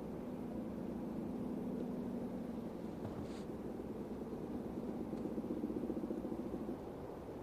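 Diesel locomotive engine running steadily: a low, continuous engine hum.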